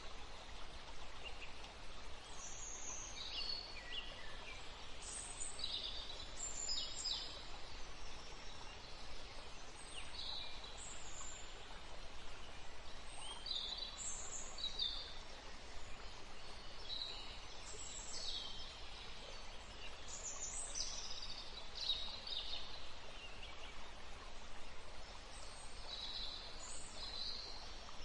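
Small songbirds chirping, with short high calls and quick falling notes repeating every second or two over a steady background hiss and low rumble.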